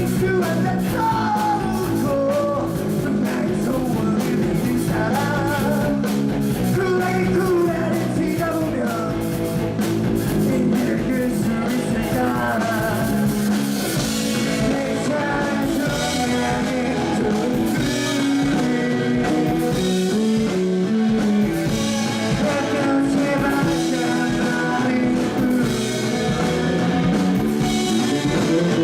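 Rock band playing live: electric guitars, bass and drums with a singer, the cymbals growing more prominent about halfway through.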